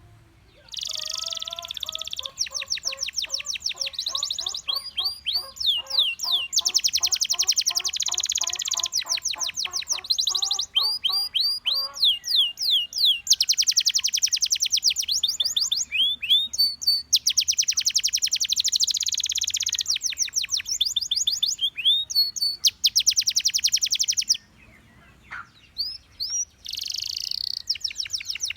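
Gloster canary singing a long song of fast trills and rolls, each a rapid run of repeated notes, broken by short downward-sliding whistles. The song stops for about two seconds near the end, then starts again.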